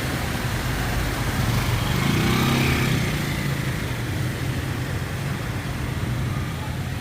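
A motor vehicle engine running steadily, swelling briefly about two seconds in.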